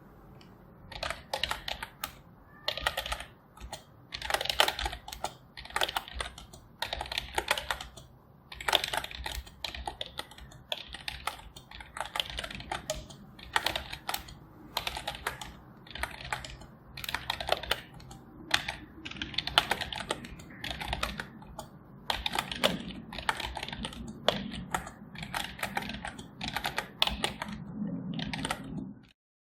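Typing on a computer keyboard: runs of fast keystroke clicks with short pauses between them.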